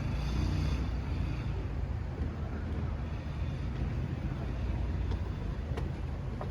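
Steady low rumble of background noise, with a faint click about six seconds in.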